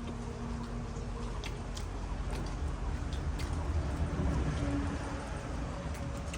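Eating sounds: scattered small wet clicks and chewing noises over a low, steady background hum.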